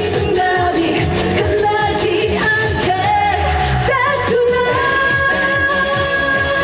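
A female singer sings an upbeat trot pop song live over a backing track with a steady drum beat, holding one long note from about four and a half seconds in.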